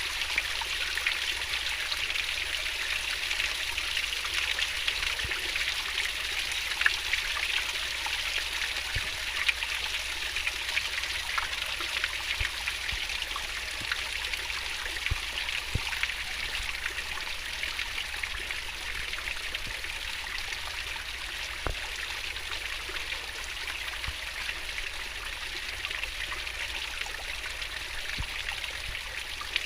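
Fast-flowing stream water running over rocks: a steady rushing babble with many small splashes and trickling ticks.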